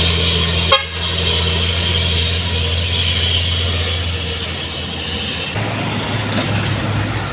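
Heavy truck engine running steadily under load. There is a sharp click about a second in, and the engine note changes abruptly a little over five seconds in.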